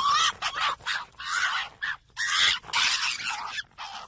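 Fox calling: a string of harsh, raspy yelps and screeches of uneven length with short gaps between them.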